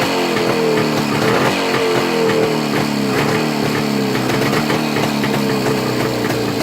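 Jawa 350 two-stroke twin engine running just after a cold start, its revs wavering up and down.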